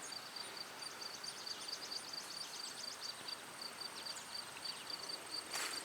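Crickets chirping faintly: a steady high pulsing chirp, several pulses a second, with a rapid ticking trill from another insect in the first few seconds and a brief rustle near the end.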